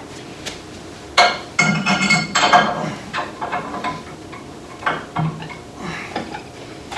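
Metal parts clinking and clattering against each other while an engine's motor mount hardware is worked into place: a sharp ringing clank about a second in, a run of rattling clinks over the next two seconds, then a few single clicks.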